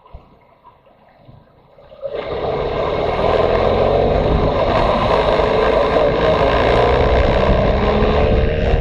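Motorcycle riding with engine and wind noise: fairly quiet at first, then about two seconds in the sound comes in suddenly and stays loud, with the engine pitch rising near the end as it accelerates.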